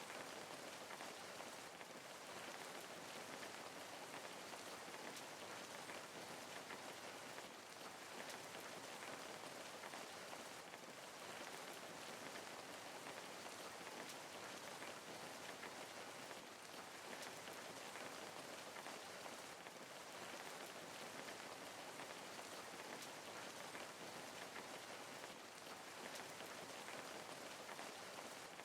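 Steady rain falling, a continuous even patter of many drops on a surface.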